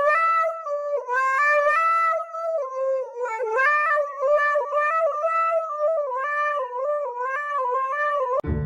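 A pet howling in one long, wavering call, its pitch stepping up and down like a tune, with only brief breaks for breath. It stops just before the end, as plucked-string music starts.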